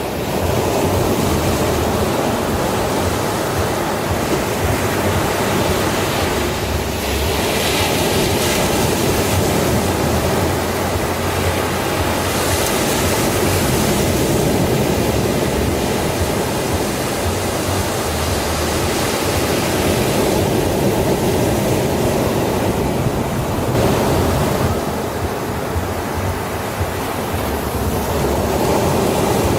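Sea waves breaking and washing onto a beach: a continuous rush of surf that swells and eases every several seconds.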